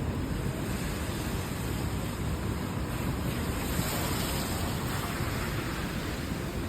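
Heavy rain on a city street: a steady hiss with a low rumble underneath, swelling louder for a couple of seconds around the middle.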